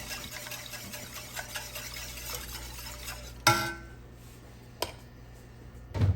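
Whisk stirring a thin roux-and-chicken-stock soup base in a pot, with small ticks of the wires against the pot. About three and a half seconds in, a loud metallic clank rings briefly, followed by a couple of lighter knocks near the end.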